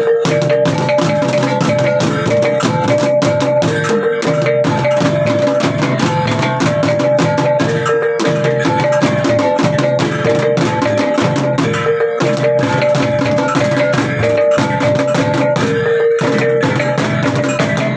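Traditional percussion music: rapid, steady drumming under a repeating figure of ringing tones that alternates between two pitches every second or two.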